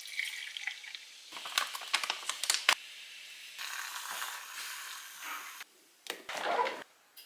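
A run of small sharp clicks and taps mixed with crinkly, crackling rustles, like objects and packaging being handled close up. It is broken by a couple of brief gaps.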